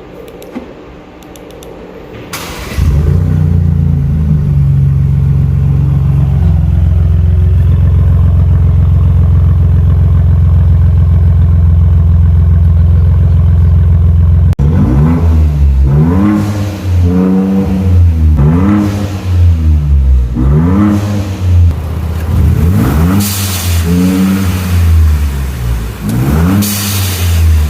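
Turbocharged Ford Bronco with an aftermarket exhaust starting up and running at a steady idle. About halfway through it settles lower and is blipped through a series of revs that each rise and fall. Toward the end a hiss from the tuned blow-off valve follows some of the revs.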